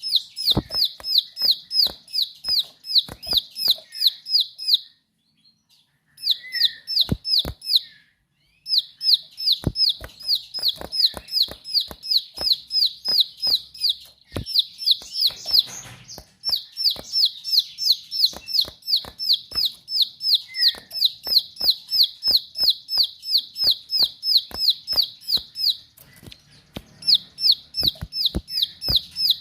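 Ciblek sawah, a small prinia, singing its rapid 'ngebren' song: long trains of sharp, high repeated notes at about three or four a second, broken by a few short pauses, with sharp clicks among the notes.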